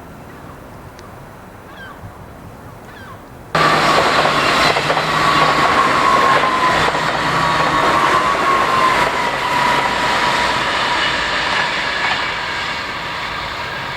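A train running through the station, starting abruptly about three and a half seconds in, with rail noise and a high whine that slowly falls in pitch.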